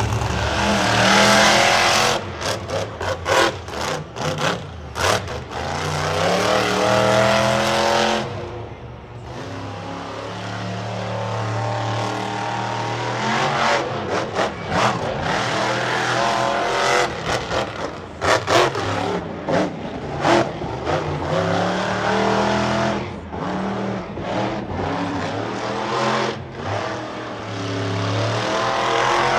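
Monster truck engine revving hard and easing off over and over, with its pitch climbing and falling. There are repeated short breaks where the throttle is chopped, and a brief lull about eight seconds in.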